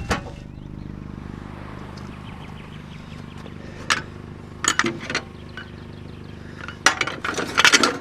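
Scrap metal clanking and clinking as pieces are handled and dropped: a sharp knock at the start, single strikes near the middle, and a quick cluster of clanks near the end, over a steady low hum.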